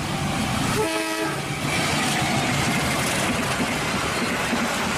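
Diesel locomotive hauling a passenger train past at speed: a steady rumble of engine and wheels on the rails, with a brief horn blast about a second in.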